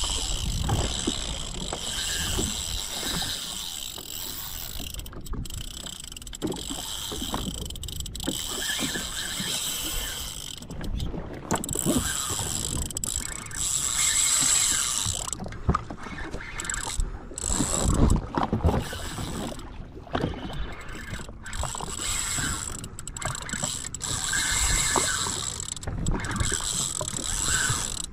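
Fishing reel's ratchet clicker ticking as line pays out while a live bait is sent down, over water and boat noise.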